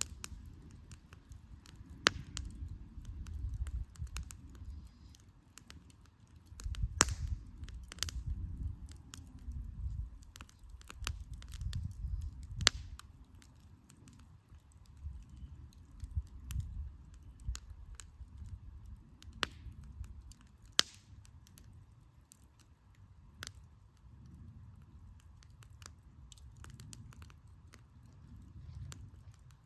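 Wood campfire crackling, with sharp pops at irregular moments, several of them loud, over a low rumble that swells and fades.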